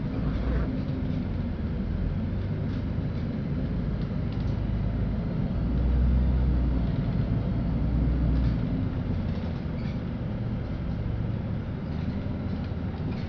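Cabin noise of a LiAZ-5292 low-floor city bus under way: a steady low rumble of engine and road, swelling a little about six to eight seconds in, with a few faint rattles.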